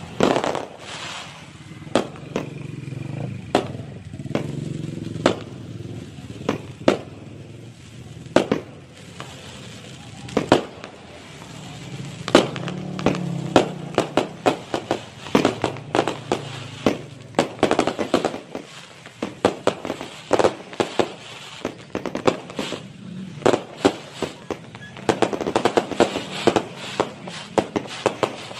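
An aerial fireworks display: many sharp bangs and crackles from bursting shells at irregular intervals, coming thicker and faster in the second half, over a murmur of crowd voices.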